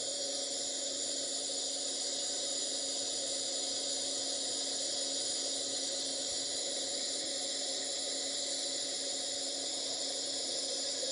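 Live-tool spindle of a Tsugami B0203-III CNC Swiss lathe running unloaded at about 5,000 RPM: a steady whine with a strong, even hiss over it.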